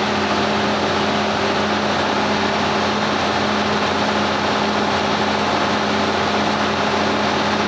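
A steady machine hum with a strong low tone and a constant hiss, unchanging throughout.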